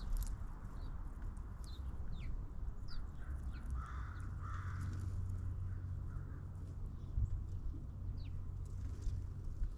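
Wild birds calling: scattered short, high falling chirps, with two harsher calls a little before the middle, over a steady low rumble.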